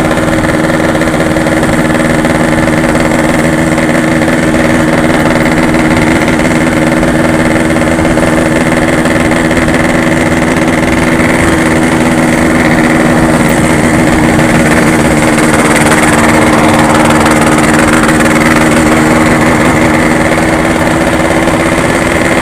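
Yamaha RX-King's two-stroke single-cylinder engine running at steady revs while riding; the tone and loudness hold nearly constant, swelling slightly past the middle.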